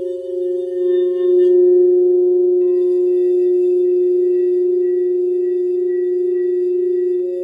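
Crystal singing bowls ringing together in long, steady overlapping tones, swelling louder about one and a half seconds in and holding with a slow waver.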